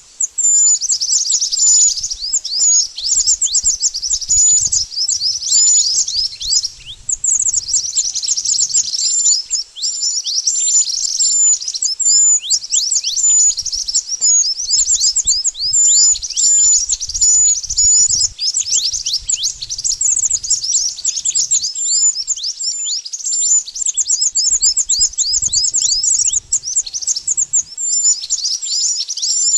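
Mantenan bird singing: a rapid, unbroken stream of high, sharply falling chirps with short hooked notes mixed in. The song is kept going as a lure call for bird trapping.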